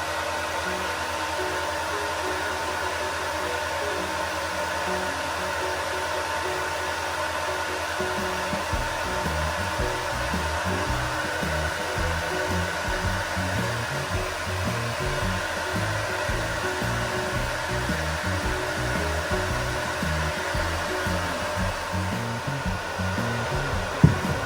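Hair dryer blowing steadily on a dog's coat, a constant whine over rushing air, with a single sharp knock near the end.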